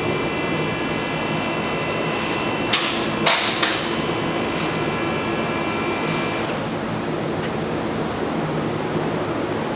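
Steady hiss of background noise, like a shop fan or ventilation, with a faint high whine that stops about six and a half seconds in. A few sharp knocks, like tools or parts being handled, come around three seconds in.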